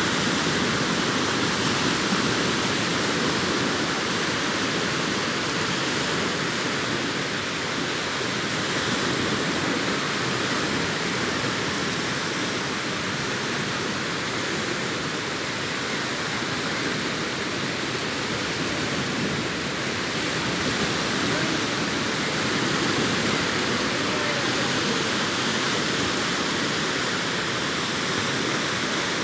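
Sea surf breaking and washing ashore: a steady rush of waves that rises and eases a little in level.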